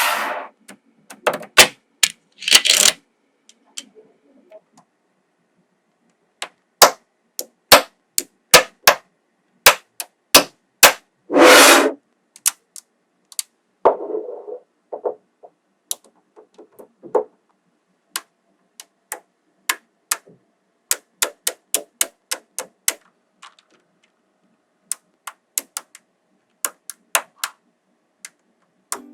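Magnetic balls clicking as they snap onto one another: dozens of sharp single clicks at uneven intervals, with a few short clattering rattles of several balls at once.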